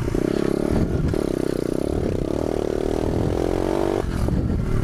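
Pit bike engine running under steady throttle while riding, with low wind rumble; the engine note drops off about four seconds in as the throttle eases.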